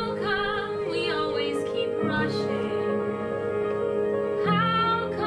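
Music: a high female voice singing a slow melody with vibrato over sustained chords, which change about two seconds in and again near the end.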